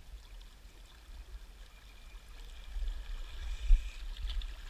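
Rushing river current from the dam's tailwater, a steady hiss that grows louder over the second half, with wind rumbling on the microphone. There is a brief thump a little after three and a half seconds.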